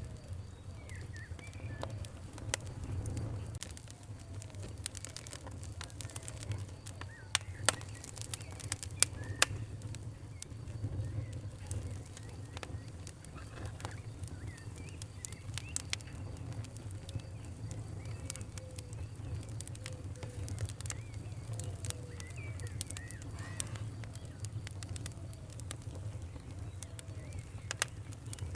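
Wood fire crackling, with irregular sharp pops, a few louder ones, over a steady low rumble. Faint bird chirps sound in the background.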